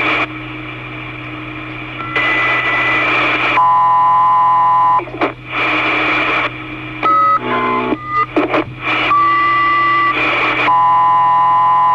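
Two-way radio channel with no one talking: bursts of static hiss as transmissions key up and drop out, broken by steady electronic tones and beeps, some single and some chord-like, each cutting in and out abruptly.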